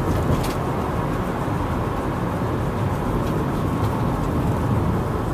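Steady engine and road noise from a moving vehicle, heard from inside the cabin as a low, even rumble.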